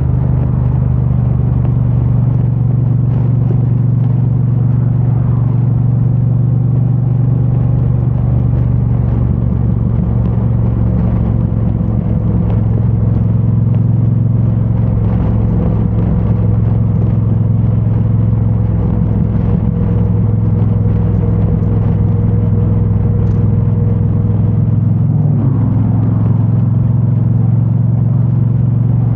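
2022 Triumph Bonneville T100's 900 cc parallel-twin engine running through its stock exhaust while the bike rides along at a steady pace. The engine note stays steady, with a slight dip in pitch about 25 seconds in.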